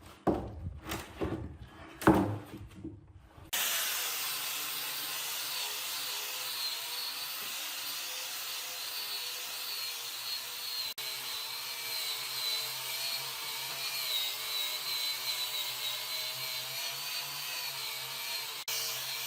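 A few sharp knocks on wood, then a power tool starts and runs steadily against wood, with a steady whine that wavers slightly as it works.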